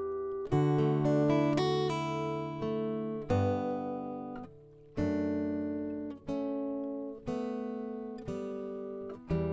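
Acoustic guitar playing a solo improvisation: chords struck and left to ring, about one a second, with a quicker run of notes in the first couple of seconds.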